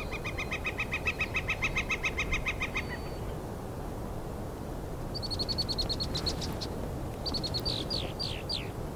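Birds calling: a fast, even run of pitched notes for the first three seconds, a higher quick run of notes after a pause, then a few falling slurred notes near the end.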